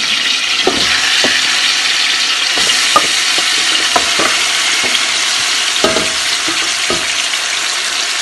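Marinated chicken sizzling as it fries in hot oil in a metal pot, stirred with a wooden spatula. A steady loud hiss runs throughout, with irregular knocks and scrapes of the spatula against the pot.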